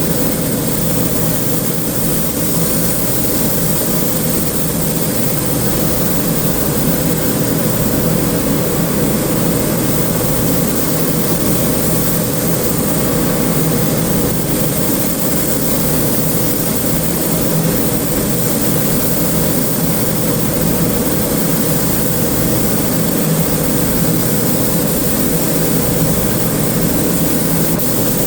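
Steady, loud drone of running shop machinery with a low hum under it, unchanging throughout.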